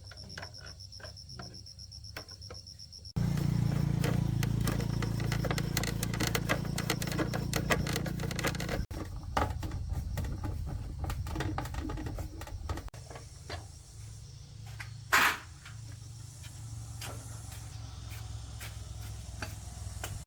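A small 110cc motorbike engine running steadily with a low, even hum and a busy patter of ticks, coming in abruptly about three seconds in after a few light clicks and dropping in level after about nine seconds. One loud, sharp crack about fifteen seconds in.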